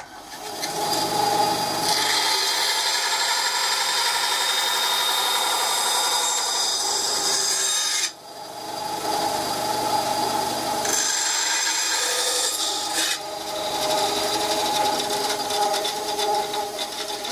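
Bandsaw running and cutting slots into a piece of scrap wood, with a steady whine over the sound of the cut. It stops about halfway through and starts again a moment later.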